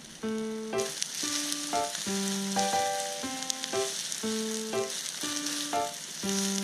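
Yakisoba noodles sizzling as they fry on a nonstick BBQ grill sheet and are stirred with chopsticks. The sizzle comes in about a second in and runs under light background music.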